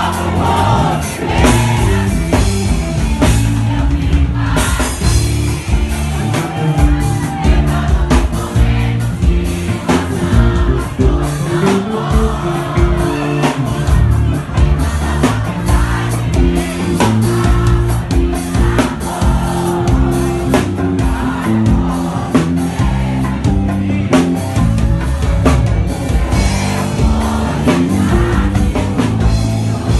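Live band playing a song through a PA, with a singer over bass, guitar and drums.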